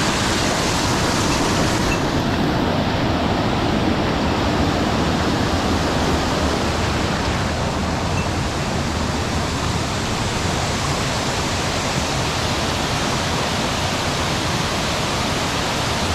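Mountain stream water rushing steadily where it pours over a check dam, a loud, even roar of falling water.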